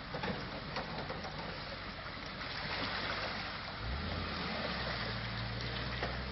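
Rushing water at a river crossing with a vehicle engine running; about four seconds in, a low steady engine drone comes in and holds.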